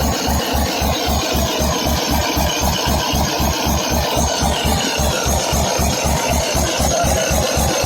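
Tata Cummins six-cylinder diesel engine idling steadily after starting, with an even low throb about four or five times a second.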